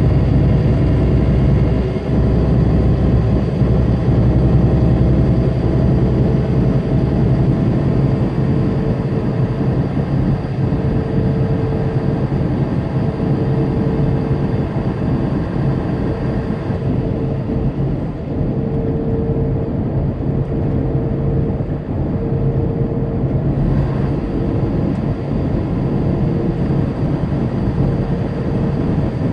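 Semi truck's diesel engine and road noise heard from inside the cab while driving at highway speed, a steady drone whose deepest rumble eases about seven seconds in.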